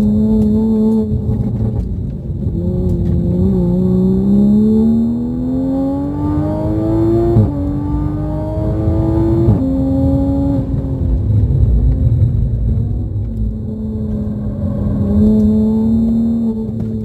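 Turbocharged B58 straight-six of a Toyota A90 Supra under hard acceleration on track: the engine note climbs steadily, drops sharply at two quick upshifts about seven and nine and a half seconds in, then falls away as the throttle is lifted and settles to a steady lower note near the end.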